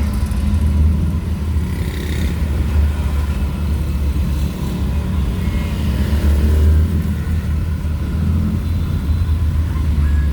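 Steady low engine and road rumble of a moving vehicle, heard from inside the cab.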